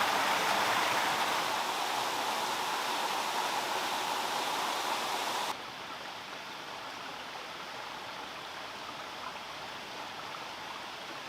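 Steady rush of running water. About halfway through it cuts off abruptly to a quieter, duller hiss.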